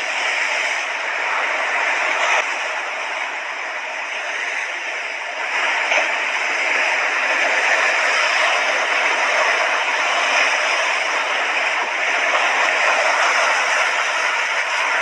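Sea waves washing onto a beach in a continuous hiss, easing a little and then swelling again about five seconds in.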